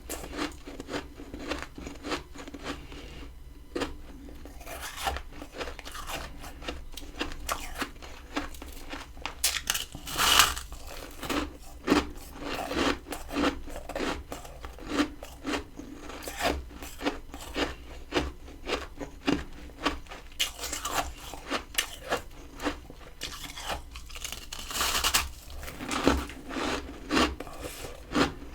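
Close-up crunching and chewing of mouthfuls of frozen freezer frost, a steady run of crisp crunches with louder bites about ten seconds in and near the end.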